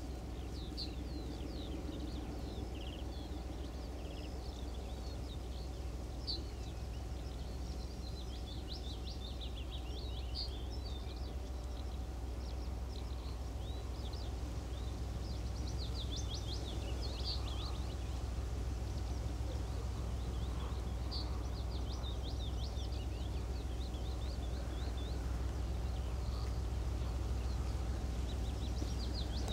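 Songbirds chirping and trilling over a steady low rumble that slowly grows louder.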